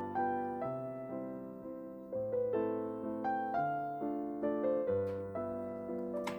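Piano music: a gentle melody of single struck notes over lower held notes, each note fading after it is played. A light click sounds near the end.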